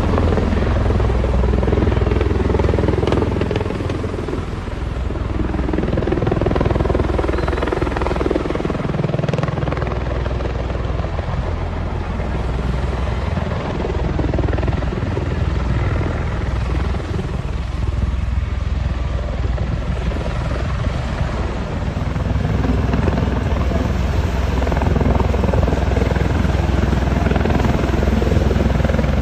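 Bell-Boeing V-22 Osprey tiltrotor flying, its two large proprotors and turboshaft engines giving a steady, deep rotor thrum that swells and eases a little.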